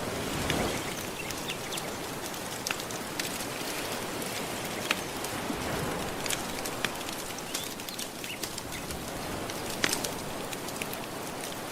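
Gentle sea waves washing on a shore, a steady hiss that swells about half a second in, with a wood fire crackling over it in scattered sharp pops.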